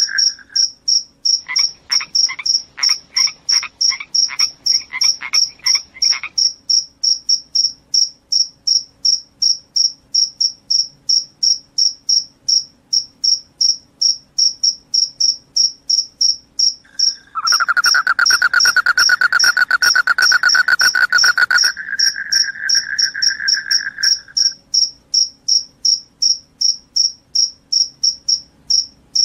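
Crickets chirping in a steady, regular rhythm, a high-pitched chirp about two to three times a second. A second, lower trilling call comes and goes over it, loudest for a few seconds a little past the middle.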